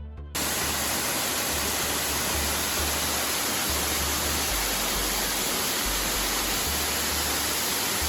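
Steady, loud rush of a spillway waterfall, cutting in abruptly just after the start. Low music notes carry on underneath.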